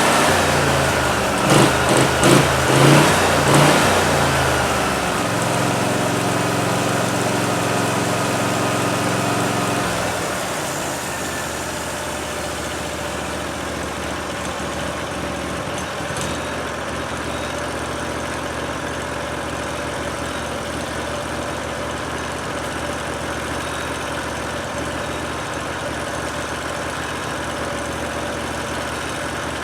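Portable band sawmill's gasoline engine running, with several short surges in the first few seconds, then settling into a steady run that drops a little in level about ten seconds in.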